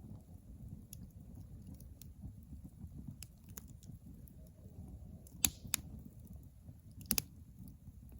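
Campfire burning with a steady low rumble and scattered crackles. A sharp pop comes about five and a half seconds in, another right after it, and a quick double pop about two seconds later.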